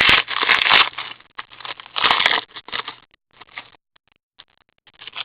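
Foil trading-card pack wrapper crinkling and tearing as it is opened and the cards are handled, in noisy bursts that thin out to a few small clicks and rustles.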